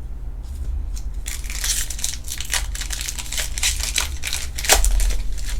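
Foil trading-card pack wrappers crinkling as they are torn open and handled, in irregular rustles with a sharp crackle near the end, over a steady low hum.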